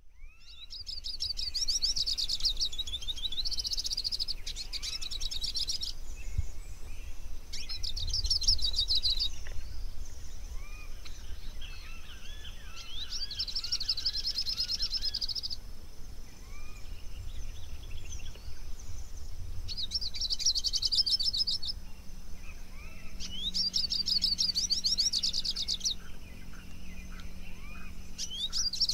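Songbird singing: rapid high trilled phrases, each a second or two long, repeated every few seconds with softer chirps between them, over a low outdoor rumble.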